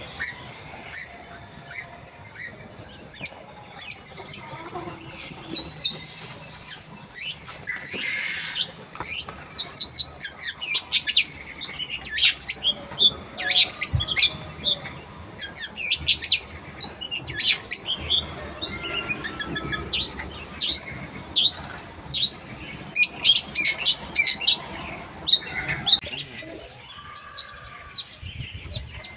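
Long-tailed shrike (cendet) singing a fast, varied song of short, sharp chirps and trills, thin at first and much busier through the middle.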